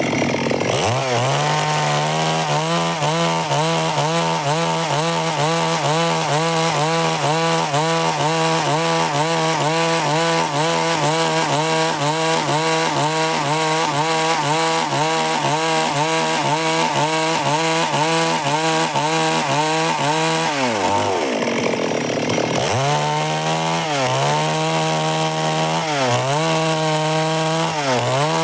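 Stihl MS 382 two-stroke chainsaw cutting wood under load at a steady high pitch. About twenty seconds in, the engine note drops away for a second or two, then the saw goes back into the cut, its pitch dipping briefly every couple of seconds.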